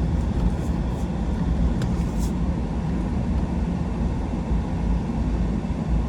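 A 4x4 truck driving, a steady low engine and road rumble with a few faint ticks about two seconds in.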